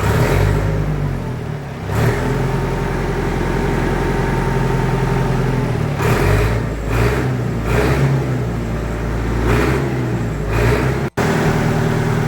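International 674 tractor engine running through a newly fitted Case 785 exhaust silencer in place of a straight pipe, its revs blipped up and back down several times.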